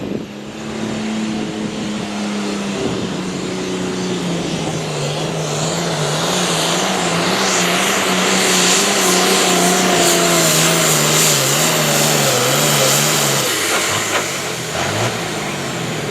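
Pulling tractor's engine running hard under load as it drags the weight sled. Its pitch steps down a few seconds in, then sags slowly as the load builds, under a growing hiss. The engine backs off about three-quarters of the way through as the run ends.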